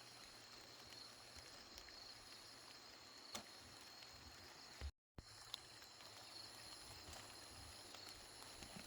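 Faint outdoor ambience with insects calling in a steady high drone, and a second, higher insect pulsing on and off about once a second. The sound cuts out completely for a moment about five seconds in.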